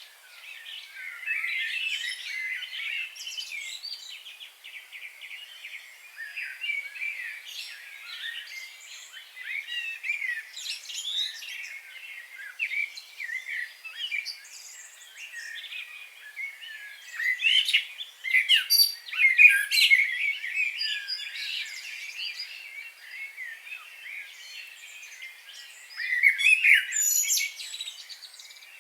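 A chorus of several birds chirping and warbling at once, busy throughout, with louder flurries of song about two-thirds of the way in and again near the end.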